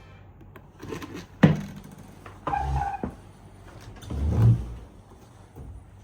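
Several separate knocks and low thuds, the loudest a sharp knock about a second and a half in.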